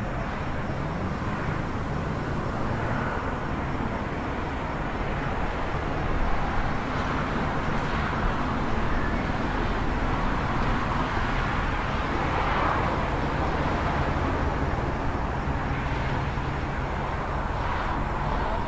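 City traffic at night: a steady wash of passing vehicles and low engine rumble, with a slight swell as a vehicle passes about six seconds in.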